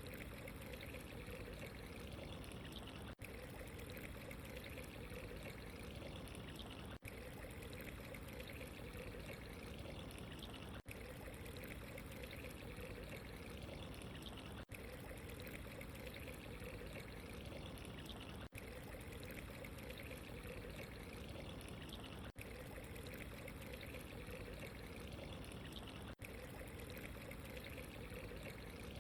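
Steady trickling, pouring water ambience, with a brief dropout about every four seconds.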